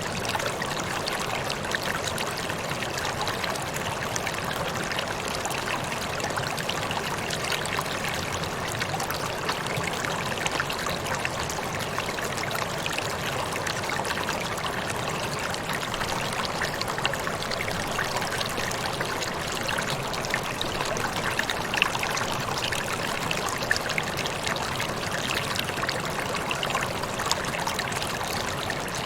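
Waterfall: water falling and splashing steadily, a continuous rushing hiss with small splashes and droplet ticks scattered through it.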